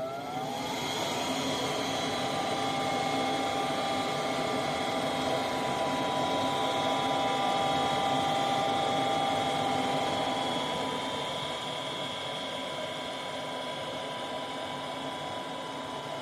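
Goodman gas furnace's exhaust (draft inducer) fan spinning up, its whine rising in pitch for about the first second and then running steadily. This is the start of the furnace's heating cycle, before the igniter comes on.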